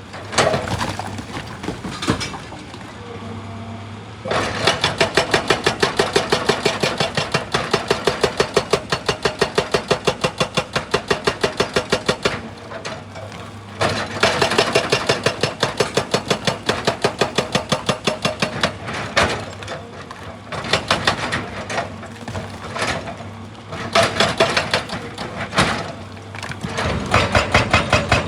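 Excavator-mounted hydraulic breaker hammering rock in bursts of rapid, evenly spaced blows. The excavator's engine runs between the bursts.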